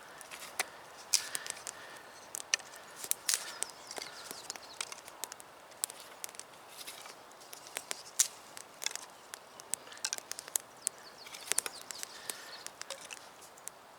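Dry wood snapping and crackling in irregular sharp cracks, a few loud, many small.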